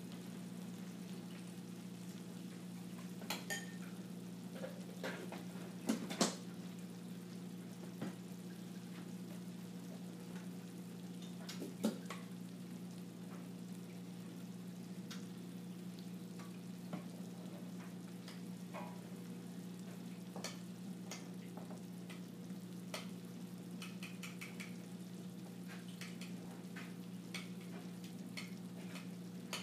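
Food sizzling as it fries in a pan, over a steady low hum. Scattered sharp clicks and clinks of utensils against pans, the loudest about six and twelve seconds in.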